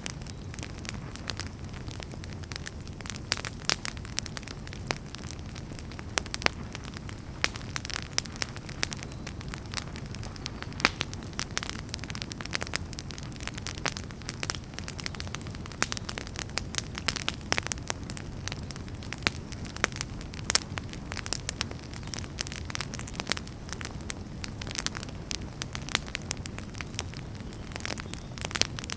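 Wood fire burning, with a steady low rumble of flames under frequent sharp, irregular crackles and pops of firewood.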